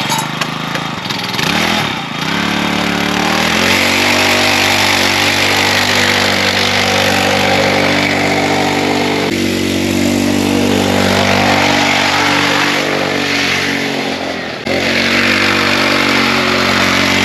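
Mini bike's small engine running after repeated stalling in freezing cold, revved up in two steps in the first few seconds and then held at a fast, steady run. The revs sag briefly about fourteen seconds in and pick back up.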